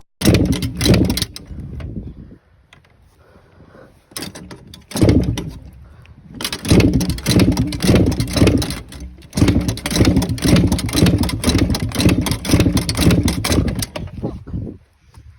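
Suzuki TC125 two-stroke single-cylinder dirt bike being kick-started on full choke, the engine turning over and sputtering in a rapid run of pops. It does not keep running.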